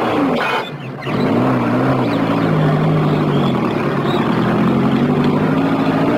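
Engine of a vintage open touring car revving up and down, then pulling away at a steady pitch as the car drives off.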